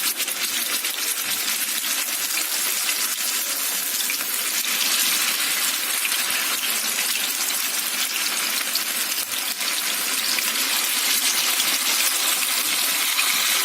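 Marinated chicken lollipops deep-frying in hot oil: a steady sizzle with dense fine crackling.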